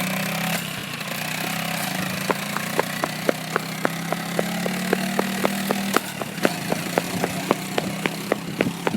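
Dirt bike engine running steadily. From about two seconds in, a sharp, regular ticking joins it at about three ticks a second.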